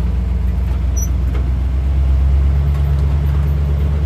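Steady low engine and road drone of a truck driving slowly, heard from inside the cab; the engine note drops slightly about halfway through.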